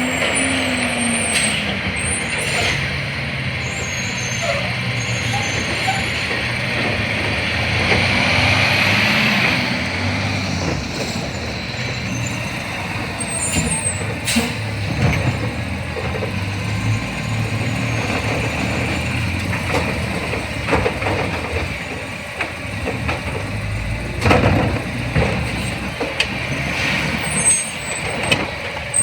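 A CNG-powered Autocar Xpeditor garbage truck with a New Way Sidewinder side-loader body running close by, with air brakes hissing and a louder hiss about a third of the way in. A few sharp knocks come through along the way.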